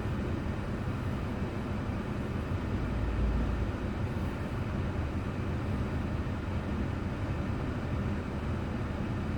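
Car driving, heard from a dashboard drive recorder inside the vehicle: steady low rumble of tyres and engine, swelling briefly louder about three seconds in.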